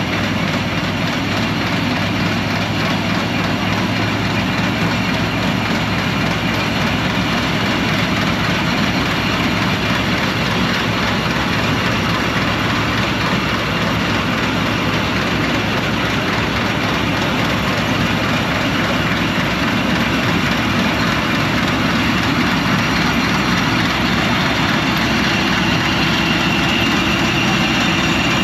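Old John Deere 4400 combine harvester running steadily: a dense, continuous diesel engine and machinery noise, with a high whine that grows stronger in the last few seconds.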